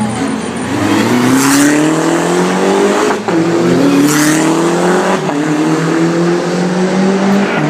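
Sports car engine accelerating hard through the gears: the engine note climbs in pitch, drops sharply at an upshift about three seconds in and again about five seconds in, then climbs once more with a further shift near the end.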